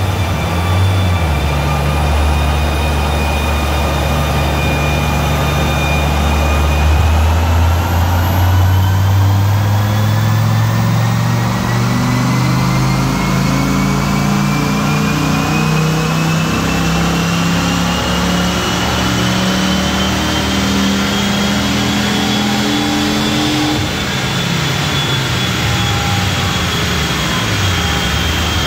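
Dodge Viper V10 engine running on a chassis dynamometer. It holds a low steady note for several seconds, then climbs steadily in revs under load through a long dyno pull, with a high whine from the spinning rollers and tyres rising alongside. About 24 seconds in the throttle comes off, the engine note drops away, and the roller whine carries on, slowly falling as the rollers coast down.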